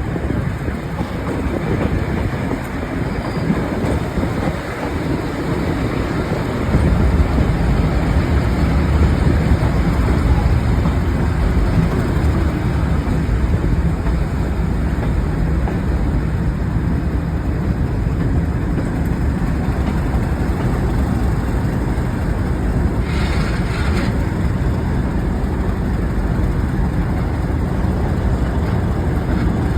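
Train at a railway station, a continuous rumble of running noise. A low steady drone comes in about seven seconds in and holds, and there is a short hiss about two-thirds of the way through.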